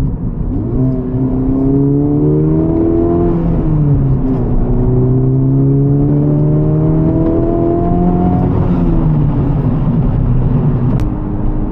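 Honda Civic Type R FL5's 2.0-litre turbocharged four-cylinder engine, breathing through an AWE Touring exhaust, accelerating hard. The revs climb, drop sharply at an upshift about three and a half seconds in, and climb again to about eight and a half seconds. Then they fall as the throttle is lifted and settle to a steady note.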